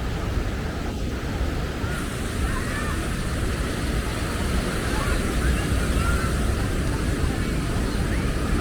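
Steady beach ambience: a rushing wash of surf with a low wind rumble, and faint distant voices.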